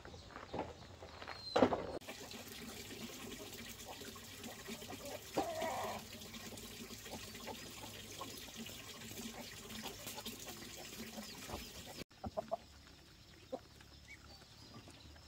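Chickens clucking over a steady hiss of running water. The hiss stops abruptly about twelve seconds in.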